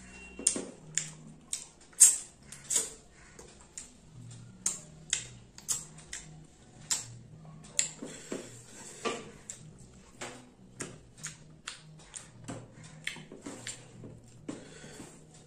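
Close-miked eating sounds: a person chewing rice and fish with his mouth open enough to make a run of sharp wet smacks and clicks, one or two a second.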